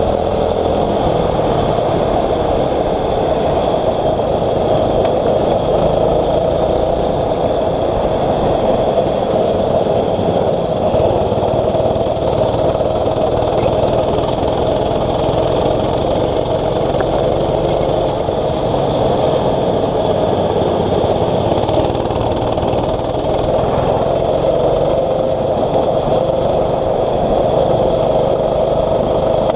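6.5 hp single-cylinder kart engine running continuously under load on track, its pitch wavering slightly and dipping briefly about three-quarters of the way through.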